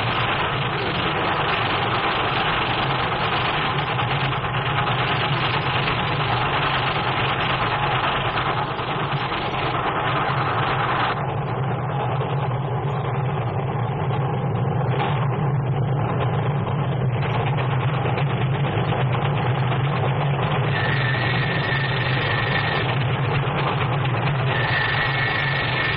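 Steam train running at speed: a steady, dense mechanical rumble and clatter. It turns duller for several seconds in the middle.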